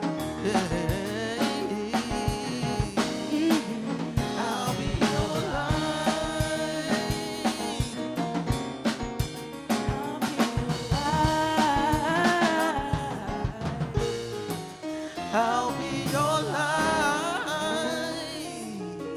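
Live soul band with drum kit and wordless vocal runs, the music dying away near the end as the song finishes.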